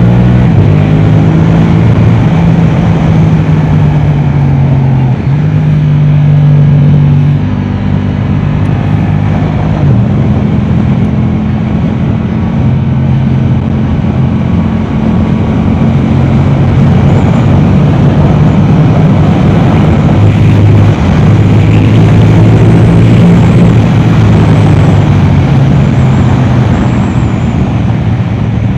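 Yamaha R7's 689 cc parallel-twin engine, breathing through an Akrapovic exhaust, running hard on track, its note stepping up and down between gears every few seconds, with steady wind and road noise underneath.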